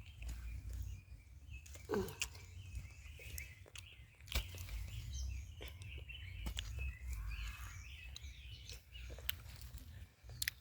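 Rural outdoor ambience: birds chirping intermittently over a steady low rumble, with scattered sharp clicks and knocks.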